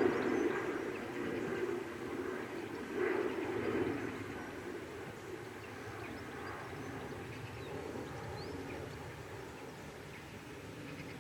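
Outdoor background noise: a low rumble that is loudest in the first few seconds and then fades, with a few faint, short high chirps.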